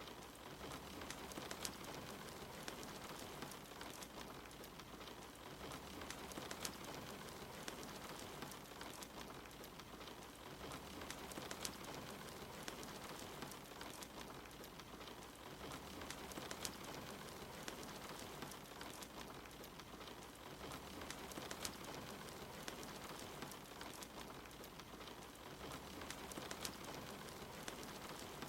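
Steady rain mixed with a crackling fire, with scattered sharp pops and clicks over an even hiss.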